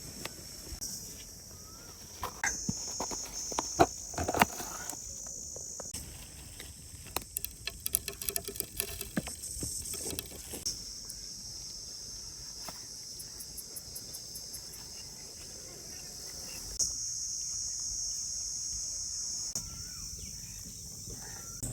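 Outdoor ambience dominated by a high insect chorus, a steady buzzing drone that swells and drops back several times, with scattered light clicks and taps over it, a quick run of them about eight seconds in.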